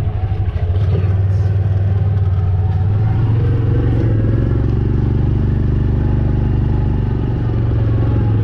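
Vehicle engine running with a steady low hum, its note filling out slightly about three seconds in.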